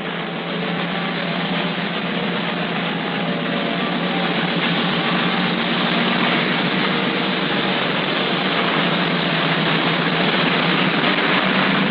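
Diesel locomotive hauling a freight train past close by: a steady, loud engine-and-wheel noise that grows a little louder as it passes.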